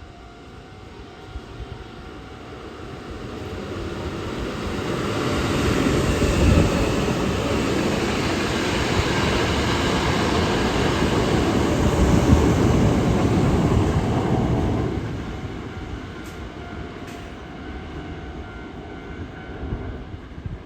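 A Hankyu electric train runs past on the rails. Its rumble builds over a few seconds, holds steady for about ten seconds, then fades quickly.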